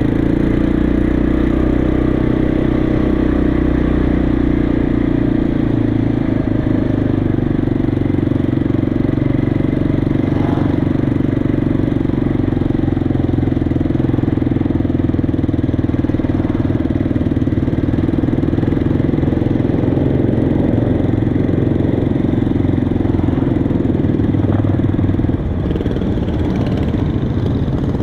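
Motorcycle engine running steadily at a low, even speed, dropping a little in loudness about 25 seconds in.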